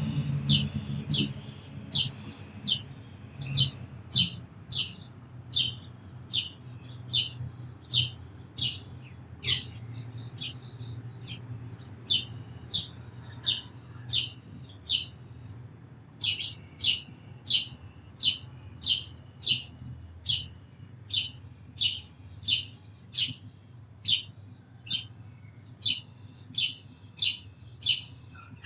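House sparrow chirping repeatedly, a run of short, sharp cheeps about two a second, pausing briefly near the middle.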